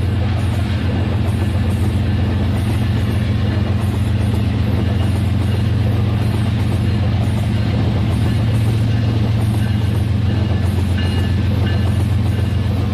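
Rail King toy train running on its plastic track: a steady electric motor hum with a fine rapid rattle and faint, evenly repeating ticks.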